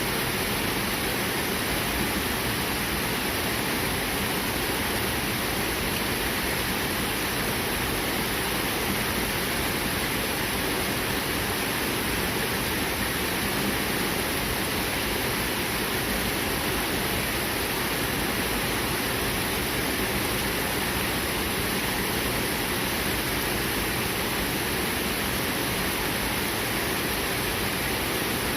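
A clear, fast-flowing river rushing steadily over its bed, a constant even water noise.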